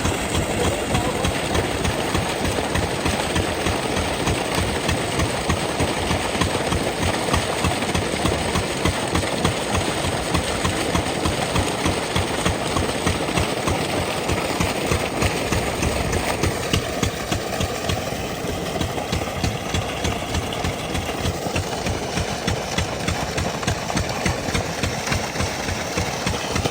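8 hp diesel engine of an irrigation water pumpset running steadily with a fast, even chugging beat. It gets a little quieter about two-thirds of the way through.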